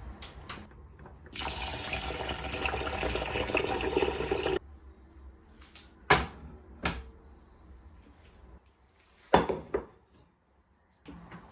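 A water tap running into a sink for about three seconds, turned on and off abruptly, followed by three sharp knocks.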